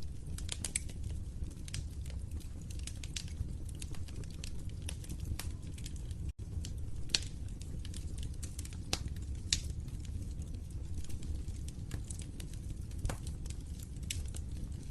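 Wood fire in a fireplace crackling, with irregular sharp pops scattered over a steady low rumble of the flames. The sound cuts out for an instant about six seconds in.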